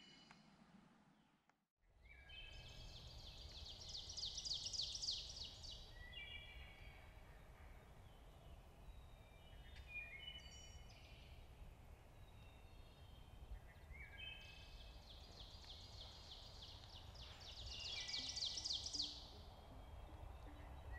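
A songbird singing twice: each song is a string of quickly repeated high notes that grows louder and climbs over about four seconds. Short high calls come between the two songs, over a low steady rumble.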